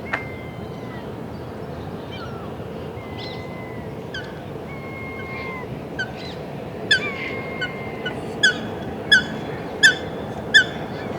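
Goose honking: a run of about seven short, loud honks, evenly spaced, in the second half. Earlier, high whistled calls are held and then drop in pitch, over a steady park background.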